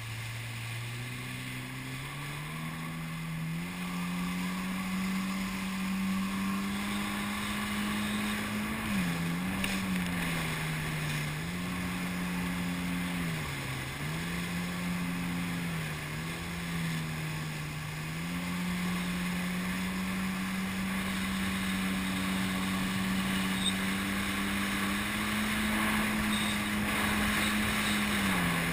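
Jet ski engine speeding up over the first few seconds, then running at speed, its pitch dropping and recovering several times as the throttle is eased off and opened again, over a steady hiss of water and wind.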